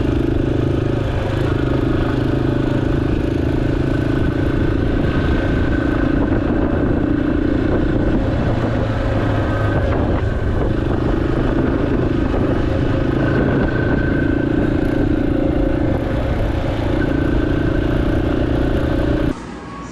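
Yamaha XT250's single-cylinder engine running steadily under way, its pitch shifting a little. It cuts off abruptly shortly before the end.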